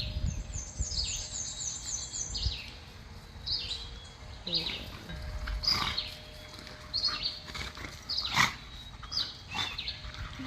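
Songbirds chirping, with a quick run of high chirps in the first two seconds and scattered calls after, over the low growling of two dogs playing.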